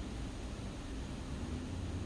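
Steady hiss of rain with a low rumble of wind underneath.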